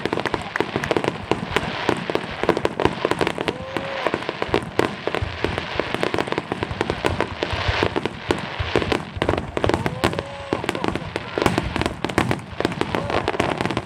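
Aerial fireworks fired in a rapid barrage: a dense, unbroken run of bangs and crackling.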